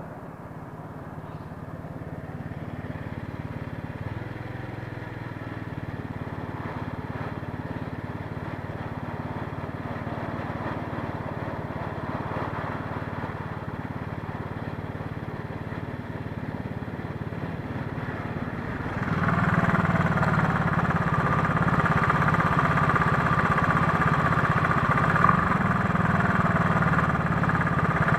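Street traffic around a moving electric scooter, with a steady mix of road and engine noise. About two-thirds of the way in, a motorcycle engine close by suddenly becomes much louder and stays loud to the end.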